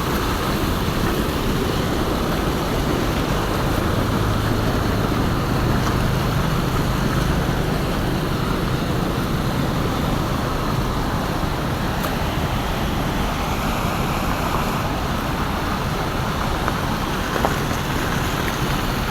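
Heavy rain pouring down steadily, an even rushing hiss, with a low hum for a few seconds about four seconds in.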